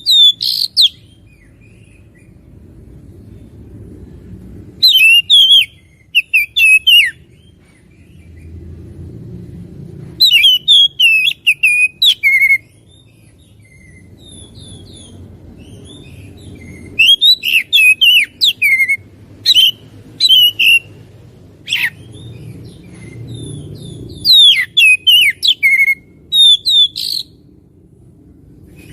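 Oriental magpie-robin (kacer) singing loud bursts of rapid, varied high whistles and chattering notes, each burst a second or two long and several seconds apart. A faint low rumble fills the gaps between phrases.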